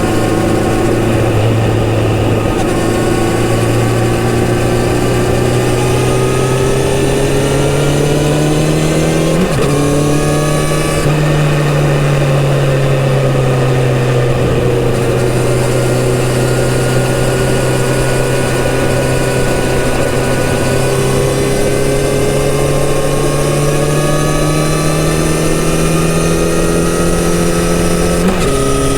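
Kawasaki Z900RS inline-four engine running through its stock exhaust under way, its pitch slowly climbing, with a gear change about ten seconds in and another near the end, over wind noise.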